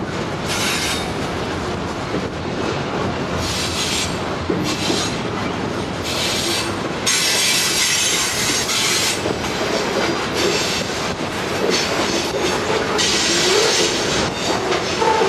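Freight train cars rolling past with steady rail noise and repeated bursts of high-pitched wheel squeal, the loudest from about seven to nine seconds in.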